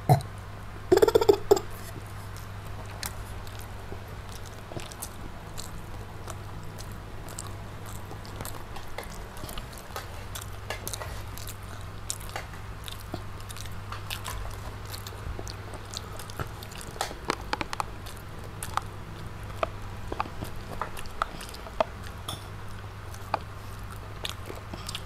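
Close-miked chewing, biting and mouth sounds of children eating fried chicken and rice with their hands, with many small scattered clicks over a steady low hum. A brief loud burst comes about a second in.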